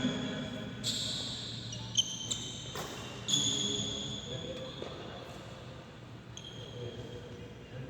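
Badminton rally in an indoor hall: several sharp racket strikes on the shuttlecock, with high shoe squeaks on the court floor after them.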